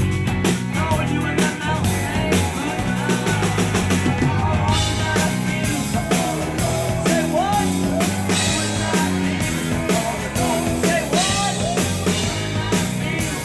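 A live rock band playing, with a drum kit keeping a steady beat.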